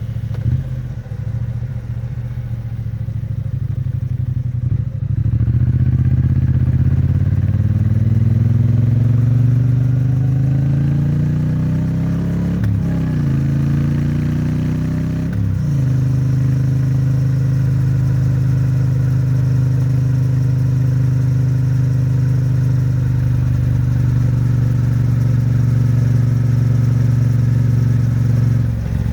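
Triumph Bonneville T100's 900 cc parallel-twin exhaust at low speed, then accelerating from about five seconds in, rising in pitch through two gear changes, at about 13 and 16 seconds, before settling to a steady cruise. The engine is in its running-in period and kept at moderate revs.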